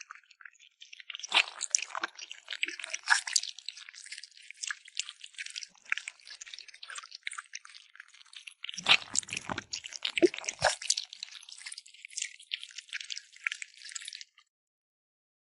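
A kitten eating meat, licking and chewing with rapid wet smacking and clicking sounds, which cut off suddenly near the end.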